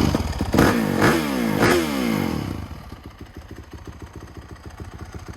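2021 Yamaha YZ450F's single-cylinder four-stroke engine through an FMF aftermarket exhaust, blipped three times in quick succession with the revs falling back after each, then settling to a steady idle about two and a half seconds in.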